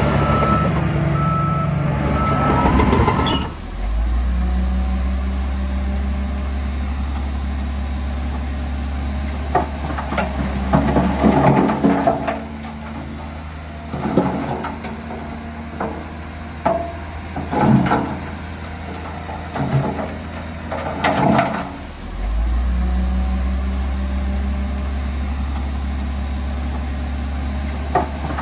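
Diesel engines of heavy earthmoving machinery (bulldozer and dump trucks) running with a steady low drone. A reversing beeper sounds for the first few seconds, and there are several metallic clanks and squeals in the middle stretch.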